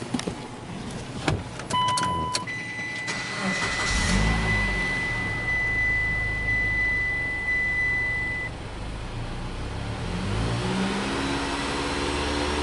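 Mitsubishi Delica D:5 engine start: a few clicks and short beeps, then a steady high chime while the engine fires up about four seconds in and settles to idle. The engine note rises again around ten seconds in.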